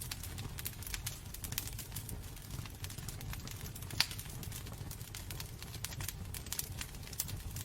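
Wood fire burning in a fireplace, crackling with irregular snaps and pops over a low rumble of the flames; one sharper pop about four seconds in.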